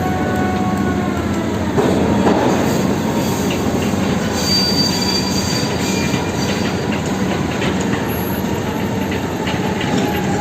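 Heavy diesel machinery running steadily, with drawn-out metallic squeals over the engine noise, like the steel crawler tracks of an excavator moving.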